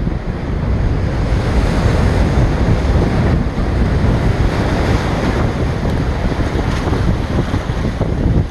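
Rough ocean surf breaking and washing against a rock jetty, under heavy wind rumble buffeting the microphone.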